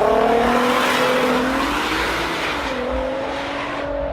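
A German six-cylinder car engine running hard at high revs after a sharp rev-up, its pitch holding high, sagging a little past halfway and climbing again near the end, with a strong hiss over it.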